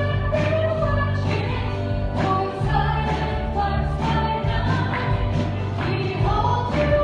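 Church worship band playing with voices singing a worship song, over steady bass and a regular drum beat.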